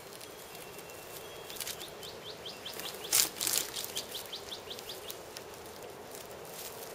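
A bird calling a quick run of short rising chirps, about five a second, for a few seconds. A loud rustle in dry leaf litter about three seconds in, with scattered small clicks and rustles around it.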